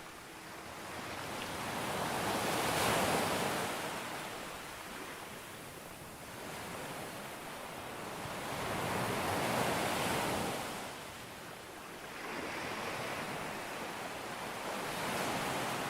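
Sea waves breaking and washing up a beach: the surf swells and fades three times, loudest about three and ten seconds in.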